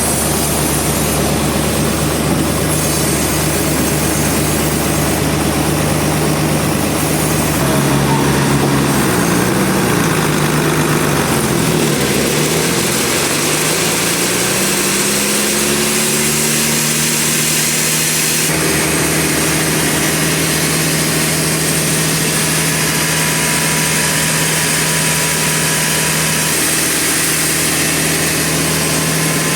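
A sawmill's engine running steadily. About a third of the way in its pitch sags, then climbs back up over a few seconds and holds steady again.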